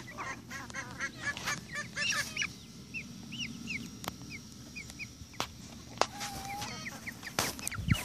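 Free-range chickens calling: a quick run of short repeated calls over the first two seconds or so, then scattered short chirps, with a few sharp clicks in the second half.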